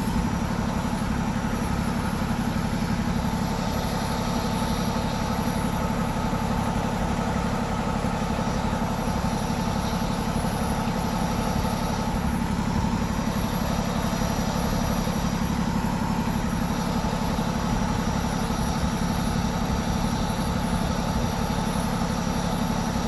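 A vehicle engine idling steadily, with an even low rumble that does not change.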